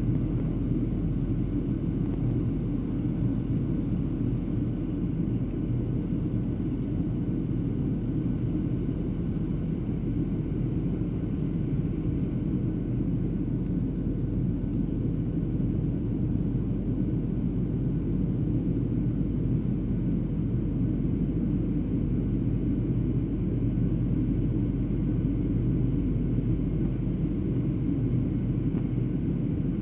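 Steady airliner cabin noise in cruise-like flight: a constant low rumble of engines and airflow that stays level throughout.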